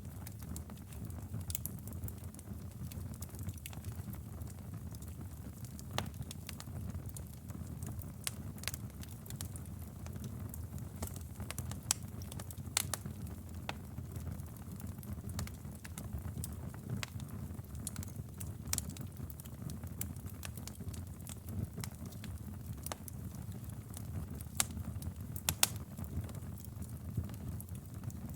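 Wood fire burning in a fireplace: a steady low rumble of the flames with irregular sharp crackles and pops, a few standing out louder near the end.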